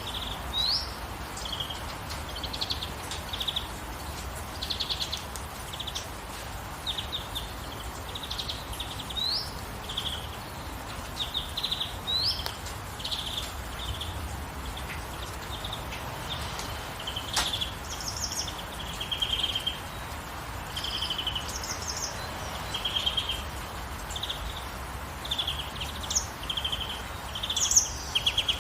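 Songbirds calling throughout in short chirps, quick trills and upward-sweeping whistles, over a steady hiss of rain. One sharp tick about two-thirds of the way through.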